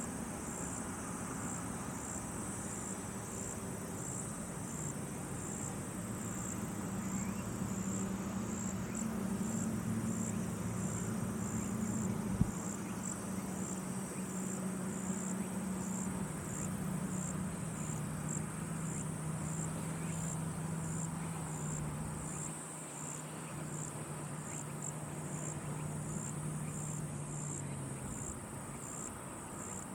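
An insect chirping in a steady, high-pitched rhythm of about one and a half chirps a second. From about six seconds in until near the end, a low steady drone sits under it and sinks slightly in pitch. There is a single sharp click about twelve seconds in.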